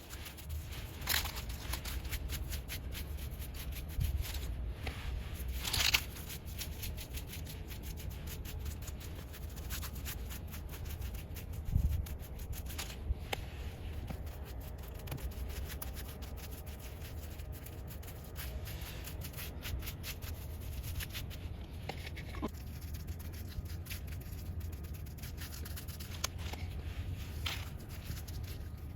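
Paintbrush rubbing and scraping white paint onto tree bark: faint scratchy strokes, a few louder brushes now and then, over a steady low rumble.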